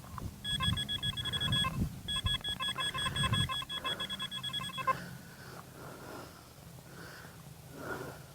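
A metal detector giving rapid, pulsing electronic beeps in two runs, the second longer and ending about five seconds in, signalling metal close by in the dig hole.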